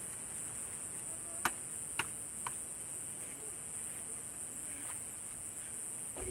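Steady high-pitched chorus of night insects, with a wood campfire giving three sharp crackles about half a second apart midway through.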